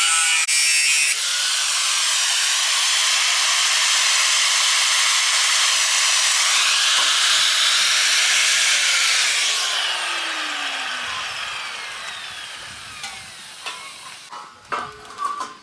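An angle grinder cutting through an iron bar with a loud, steady, hissing grind. About ten seconds in it is released and winds down with a falling whine, and a few knocks follow near the end.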